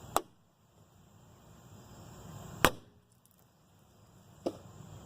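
Three sharp strikes of a Hanwei katana blade slicing into plastic bottles, about two seconds apart, the second the loudest.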